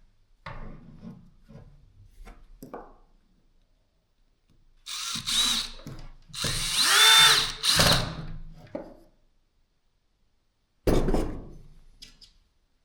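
A few handling clicks, then a cordless drill motor running in several short bursts, its whine rising and falling as it speeds up and slows. One last brief burst comes near the end.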